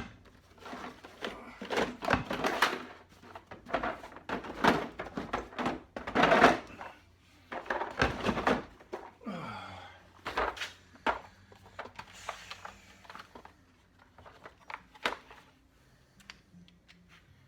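Hand tools and small metal parts being handled and set down: a run of irregular knocks and clatters that thins out over the last few seconds.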